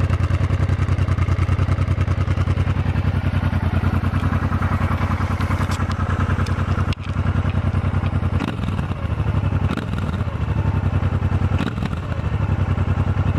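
Honda Transalp XL700 motorcycle's V-twin engine idling through its exhaust with an even, rapid pulse. A brief dropout about halfway through is followed by the same running with a slightly less even level.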